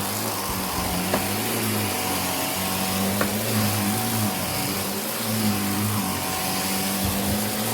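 Vacuum cleaner running steadily: a constant airflow hiss over a low motor hum that wavers slightly in pitch, with two brief ticks about one and three seconds in.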